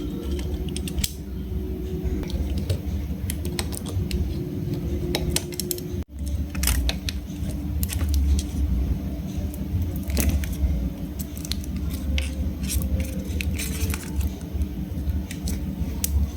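Small metal tools and parts clicking and tapping irregularly as a phone is worked on, over a steady low hum. The sound cuts out briefly about six seconds in.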